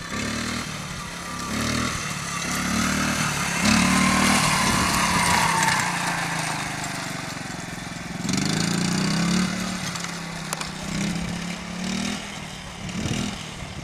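Honda Z50R mini dirt bike's small four-stroke single-cylinder engine running under a child rider, its pitch rising and falling in repeated surges as the throttle is opened and eased. It is loudest about four to five seconds in and again around eight to nine seconds.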